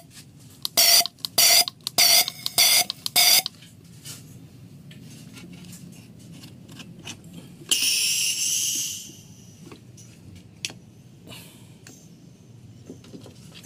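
Five short electronic beeps about half a second apart from a fuel injector test bench, then a hiss of spray lasting about a second and a half near the middle, over a low steady hum.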